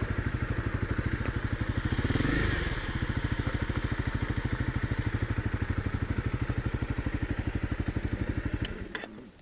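Honda single-cylinder dual-sport motorcycle engine idling with an even, rapid pulse and a brief rise about two seconds in. It cuts off suddenly near the end as the engine is switched off.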